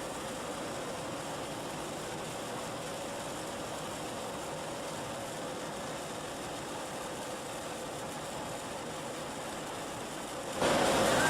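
Fibre-spraying equipment running steadily, a machine hum with rushing-air hiss and a faint steady tone. Near the end a louder rush of air swells for about a second.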